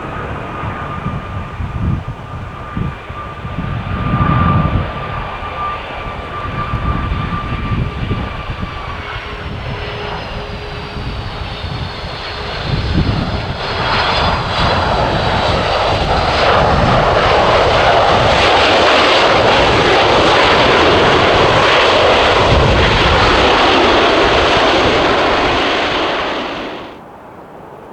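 Boeing 757 jet engines whining on a wet, windy landing, with wind gusting on the microphone. About halfway through, a loud, steady jet roar builds and dominates, then cuts off suddenly near the end.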